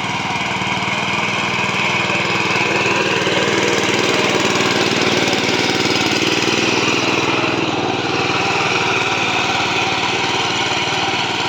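Kirloskar 10 HP single-cylinder diesel engine on a mini tractor, running steadily with a rapid, even beat.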